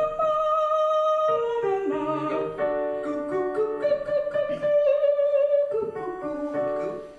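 A singer holding long sustained vowel notes in a vocal warm-up exercise over piano chords that step through the pattern, the held notes wavering slightly. Voice and piano fade out near the end.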